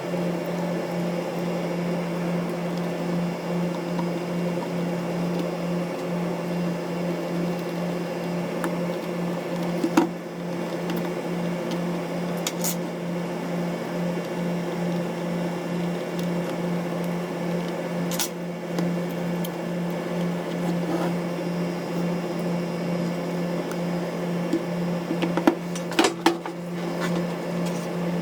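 Steady low machine hum with several steady tones above it, like a fan or bench appliance running. A few light clicks and taps sound over it, single ones now and then and a short cluster near the end.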